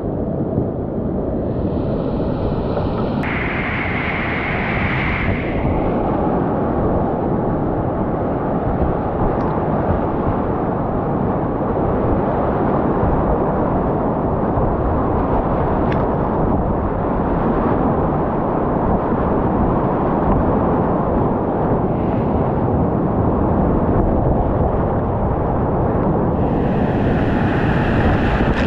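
Whitewater river rushing, a steady loud noise with most of its weight low down.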